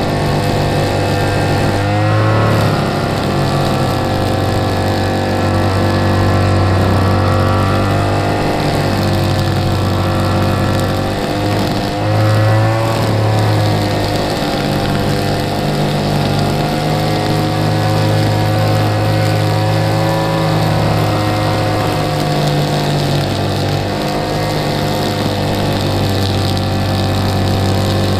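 Lawn mower engine running steadily, its pitch rising and falling slightly as the load changes.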